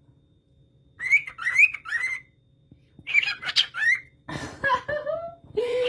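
Pet parrot chattering in a high, whistly voice in several short bursts, imitating human speech, answering the prompt "pretty girl".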